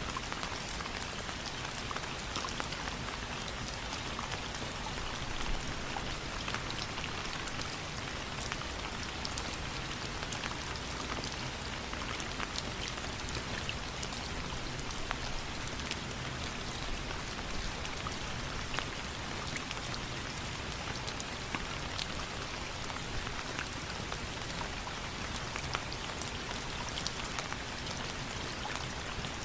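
Steady rain falling, an even hiss dotted throughout with many small, sharp ticks.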